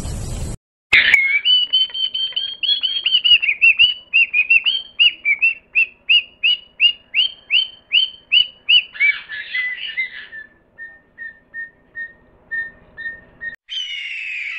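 A bird calling: a run of short, high, falling notes at about three a second. After about ten seconds they turn softer, shorter and lower, and a harsher, noisier call comes near the end.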